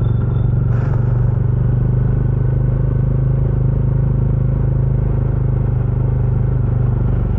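Bajaj Dominar 400's single-cylinder engine running at low, steady revs through its stock exhaust while the bike rolls slowly in traffic. A brief burst of noise about a second in.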